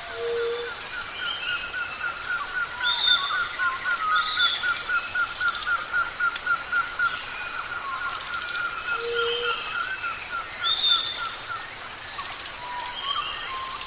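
Several birds calling at once: one keeps up an even series of chirps about three a second while others add short high buzzy calls and whistled notes, and a low short note sounds twice, over a steady natural background hiss.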